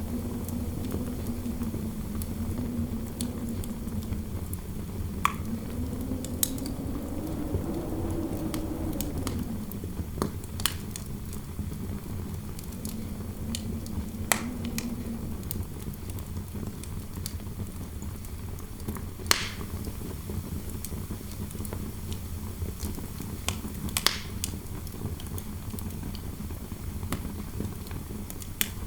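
Fireplace crackling with scattered sharp pops over a steady low rumble, while interior wind howls with a wavering low pitch through roughly the first ten seconds and briefly again around 14 seconds.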